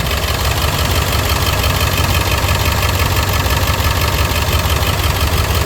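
International T444E 7.3-litre V8 turbo diesel idling steadily, warmed up after about 45 minutes of running.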